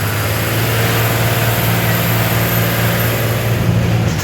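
Blue Bird school bus's turbocharged diesel engine running hard under acceleration, heard from inside the bus, a loud steady drone with a thin high turbo whine over it. The engine note drops off near the end.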